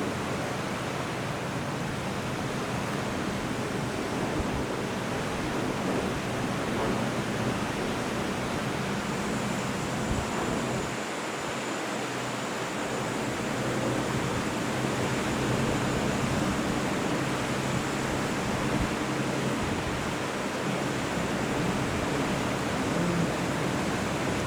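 Steady rushing noise of wind and water with a low, even engine hum beneath it; a faint high whine joins about nine seconds in.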